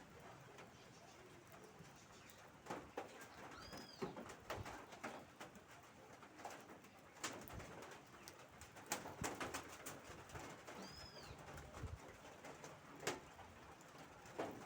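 Scattered drips and taps of rainwater as the rain eases off. A bird calls faintly, with a short, high arching chirp twice, about seven seconds apart.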